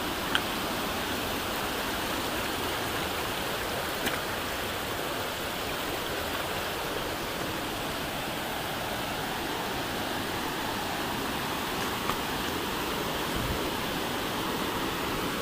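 Steady rush of a flowing river, with a couple of faint clicks.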